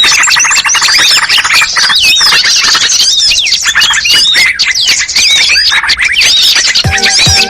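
Dense, loud chorus of many small songbirds chirping, trilling and squawking over one another: a bird-luring call mix for bulbuls, prinias and similar species. Near the end, electronic music with sharply falling synth notes starts over the birds.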